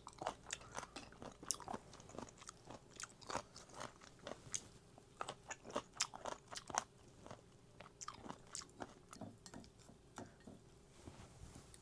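A person chewing food close to the microphone: a dense, irregular run of wet crunches and mouth clicks, thinning out near the end.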